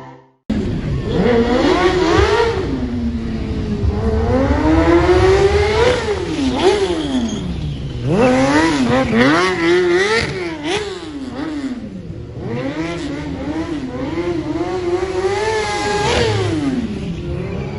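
Stunt motorcycle engine revving, its pitch climbing and dropping again and again as the throttle is worked. It starts suddenly about half a second in, with quick up-and-down swings in the middle and a drop near the end.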